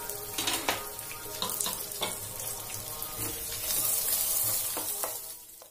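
Coconut slices and cashew nuts sizzling in hot ghee in a frying pan, with taps and scrapes of a wooden spatula as they are stirred. The sizzle grows louder for a second or so past the middle, then cuts off suddenly at the end.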